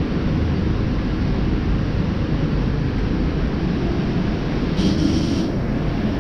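A steady low machinery drone with a short hiss of air about five seconds in.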